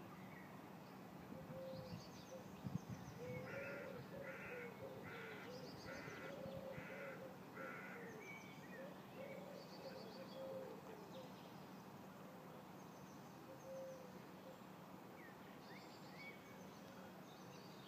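A bird gives six harsh calls in a row, evenly spaced, while smaller birds chirp faintly around it. A brief knock comes a few seconds in.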